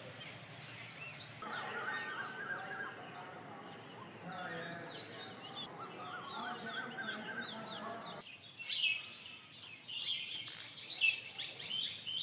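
Birds singing and chirping in three spliced recordings. First comes a quick run of repeated high, falling notes. Then a busy chorus of chirps over a thin steady high tone, and near the end loud, close chirping.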